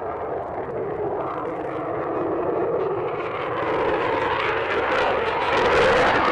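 Jet aircraft engine noise, a steady roar that grows gradually louder toward the end.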